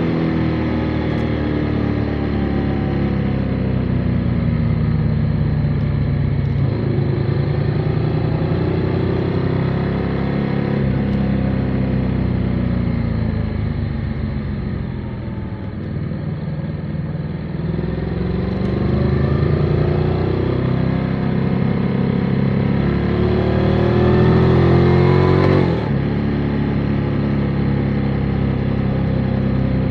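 Motorcycle engine running on the road. Its pitch falls steadily through the first half as the bike slows, then climbs as it accelerates, and drops suddenly about three-quarters of the way through.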